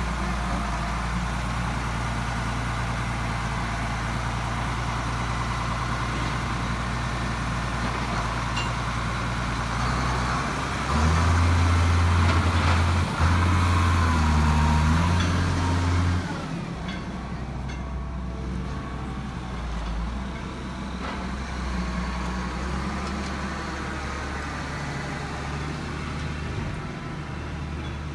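A heavy vehicle's engine running steadily, working louder and higher for about five seconds near the middle, then easing back to a lower hum.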